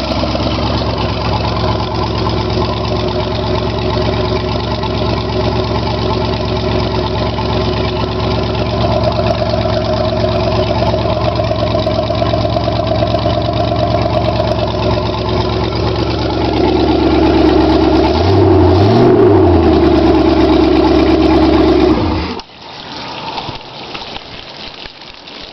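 Freshly rebuilt 5.7-litre (350) small-block Chevy V8 marine engine running on its first start, idling steadily. Near the end it is revved up and back down, then cuts off suddenly, leaving a softer hiss.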